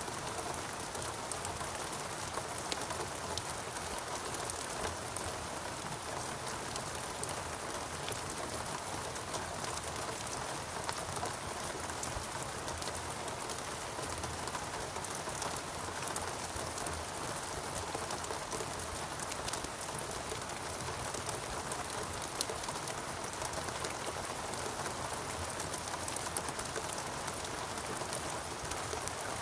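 Steady rainforest rain falling on foliage and surfaces, a constant hiss dotted with many small drop ticks.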